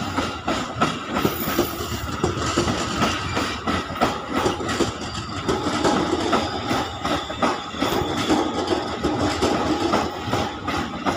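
KRL Commuter Line electric commuter train rolling past at low speed, its wheels clacking irregularly over rail joints and points over a steady hum.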